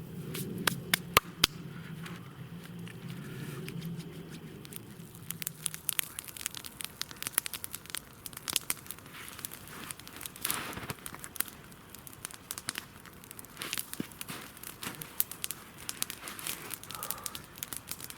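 Campfire of burning wood crackling, with many sharp irregular pops and snaps, over a low rushing noise that fades about six seconds in.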